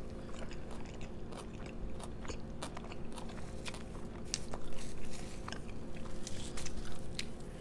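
Close-up chewing and crunchy biting of a crispy fried chicken sandwich, with many small crackling clicks that are heaviest a little past the middle. A faint steady hum runs underneath.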